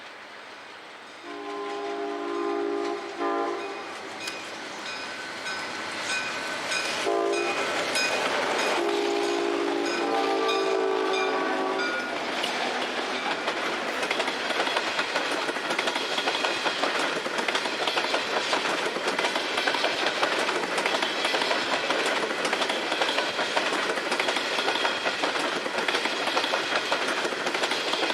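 Diesel locomotive air horn sounding several blasts, a long one, a short one and a final long one ending about twelve seconds in. The train then rolls past with steady rumbling and the rapid clickety-clack of wheels over rail joints.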